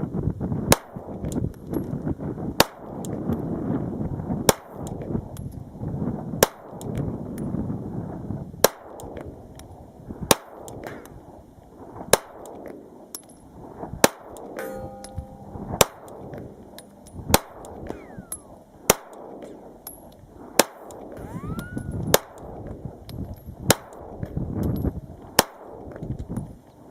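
Glock 19 9mm pistol fired slow and steady, about fifteen shots, one every second and a half to two seconds. Wind noise on the microphone runs between the shots.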